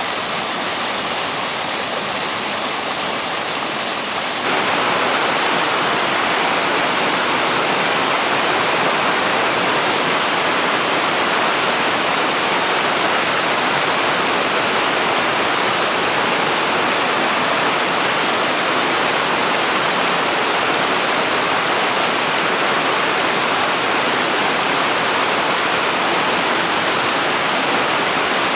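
A small stream swollen by heavy rain, rushing water making a steady noise that gets a little louder about four seconds in.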